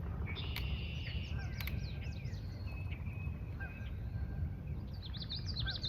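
Several marsh birds calling and singing, with a run of rapid zigzag notes near the end, over a steady low background rumble. Two sharp clicks sound about half a second and a second and a half in.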